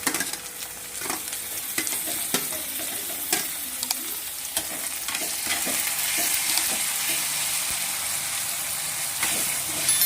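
Sliced onions and chopped tomatoes sizzling in hot oil in a kadai while being stirred, the spatula scraping and tapping the pan at irregular moments. The sizzle grows a little louder about halfway through.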